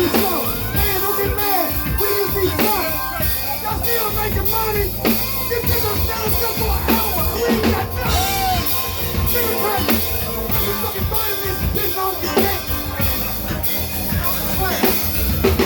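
Live band music: a drum kit beat over a bass line and other instruments.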